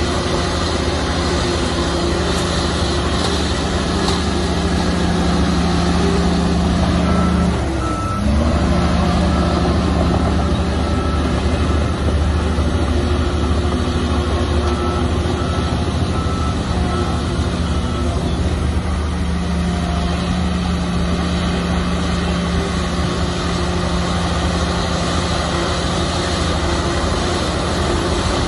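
Shantui bulldozer's diesel engine running steadily under load, with a brief dip in engine pitch about eight seconds in. A reversing alarm beeps repeatedly for about ten seconds after that, as the dozer backs up.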